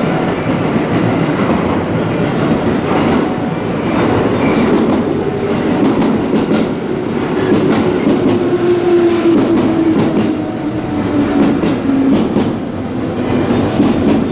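Yamatoji Line electric train moving along the platform. Wheels click over the rail joints, and a steady tone slowly falls in pitch through the middle of the passage.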